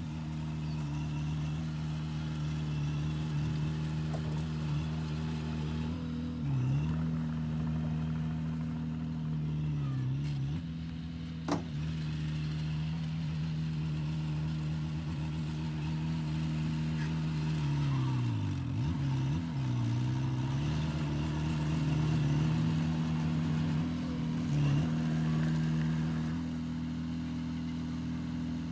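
Heavy diesel engine of earthmoving machinery running steadily, its revs dipping briefly a few times, most deeply about two-thirds of the way in. There is a sharp click near the middle.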